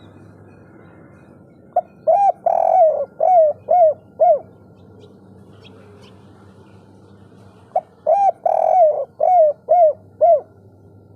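Spotted dove (derkuku, 'kuk 3' type) cooing: two song phrases about six seconds apart, each a quick run of about six short coos with one longer note early in the run.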